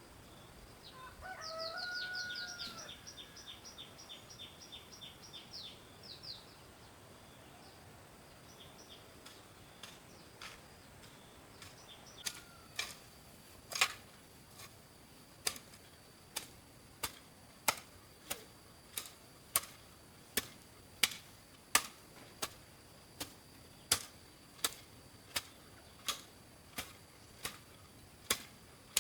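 Birds calling, with a short chirping trill, in the first few seconds. Then comes a steady series of sharp strikes, a little more than one a second, which is the loudest sound.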